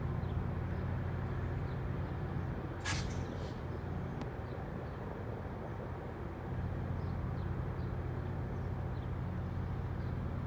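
GO Transit commuter train standing at the station, its diesel engine running with a steady low drone. About three seconds in, a short, sharp hiss of air from the brake system.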